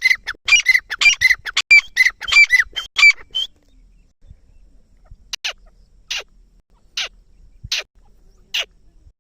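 Francolin (teetar) calling: a rapid, loud run of repeated calls at about three a second. It breaks off after about three and a half seconds, and after a short pause single sharp, downward-sweeping notes follow about once a second.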